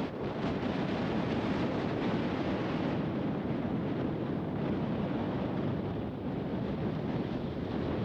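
Wind buffeting the microphone: a steady rush of noise without distinct events.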